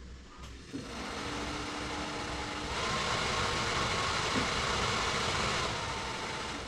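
1988 Lotus Esprit's heater blower fan running. It is working again on its repaired wiring harness. The steady rush of air with a faint motor whine starts about a second in, gets louder near three seconds as the fan goes to a higher speed, and eases a little near the end.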